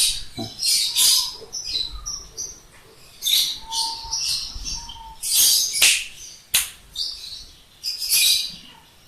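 Lovebird giving repeated short, shrill, high-pitched chirps, about a dozen spread over several seconds.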